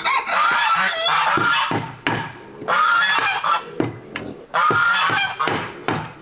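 Geese honking in long, harsh calls, about one every two seconds.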